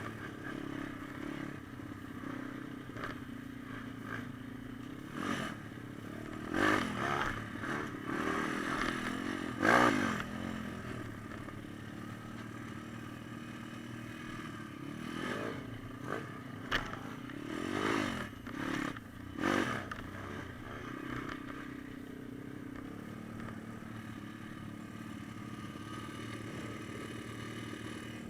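Pit bike engine running, with several short revs that rise and fall in pitch in the middle of the stretch.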